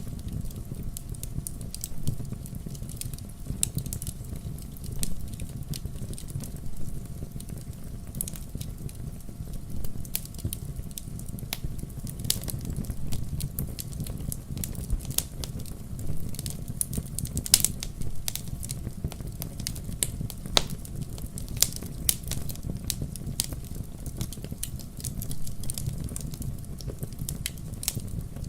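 Wood fire crackling in a fireplace: a steady low rumble of flames with frequent small irregular pops and snaps, a few of them louder.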